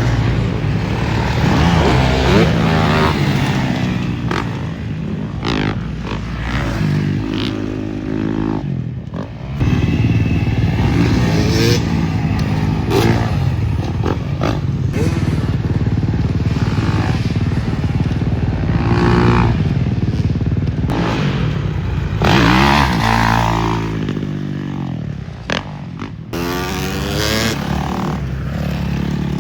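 Dirt bike engines revving hard, the pitch climbing through the gears and dropping as the throttle is rolled off, over and over. The sound breaks off briefly about nine seconds in, then carries on.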